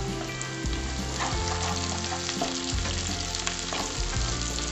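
Sliced shallots and curry leaves sizzling and crackling steadily in hot oil in a non-stick kadai, stirred with a wooden spatula.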